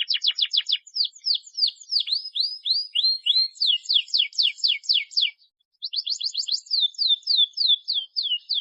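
Domestic canary singing: phrases of rapidly repeated falling notes, some fast and some slower, broken by a short pause about five seconds in before a fresh fast phrase starts.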